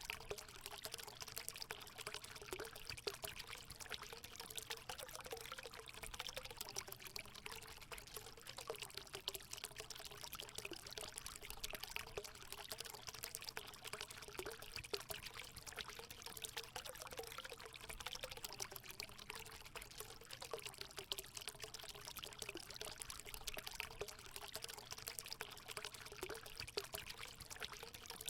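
Water running and splashing steadily into a hot spring pool, an even stream with many small irregular splashes.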